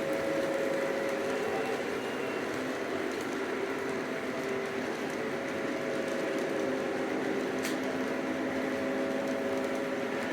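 Lionel Legacy E6 O-gauge diesel model train running on the layout, a steady hum of motors and wheels on the track.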